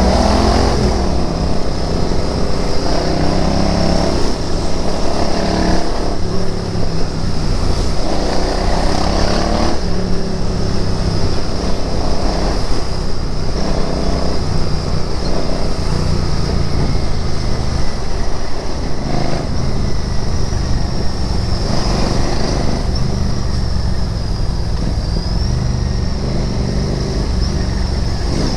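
Royal Enfield Interceptor 650's parallel-twin engine running under way, its revs rising briefly several times in the first ten seconds, then holding steadier.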